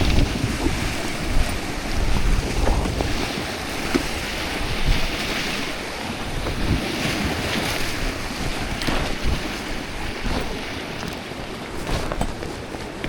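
Wind buffeting the microphone in gusts over the steady wash of sea waves.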